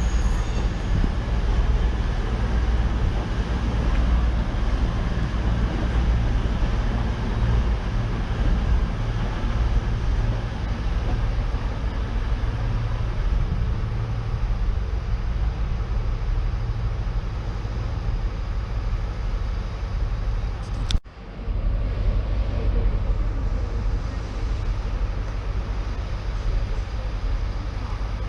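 Diesel train engine running steadily at the platform, a deep even rumble. About two-thirds of the way through the sound drops out abruptly for a moment, then returns.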